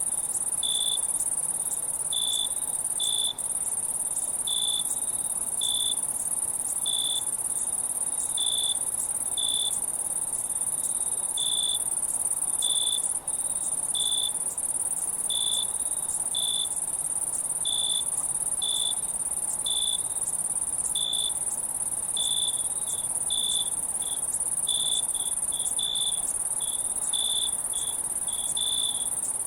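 Crickets: a steady high-pitched trill with short chirps repeating about once a second over it.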